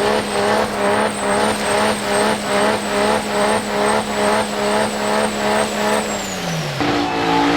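Diesel truck engine held at high revs with a high turbo whistle, pulsing about twice a second. About six seconds in the driver lets off, and the engine note and the whistle wind down together.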